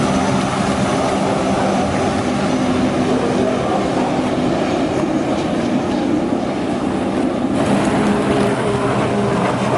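Racing jet ski engines running together in a steady, loud drone, with the high-pitched part of the sound brightening suddenly about three-quarters of the way through.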